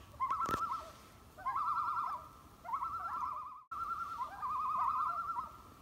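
A bird calling in a series of wavering, fast-trilled phrases, about five in a row, each under a second and often starting with a short rising note.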